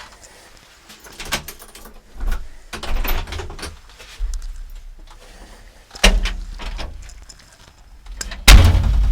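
A door being opened and shut, with clunks and rustling from the phone being handled; the loudest thud comes near the end.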